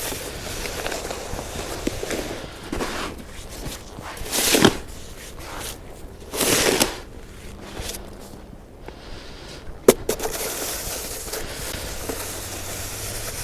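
Snow shovel blade scraping and pushing snow along a driveway, with two louder half-second scrapes around the middle and one sharp knock of the shovel later on.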